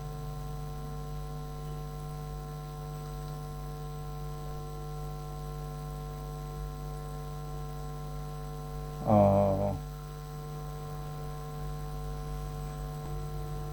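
Steady electrical mains hum in the recording. About nine seconds in comes a short wordless vocal sound from the man.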